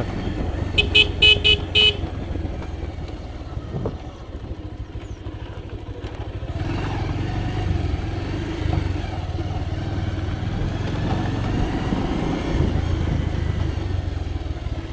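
Motorcycle running along a rough, broken road, a steady low engine and road rumble. About a second in come four short horn toots.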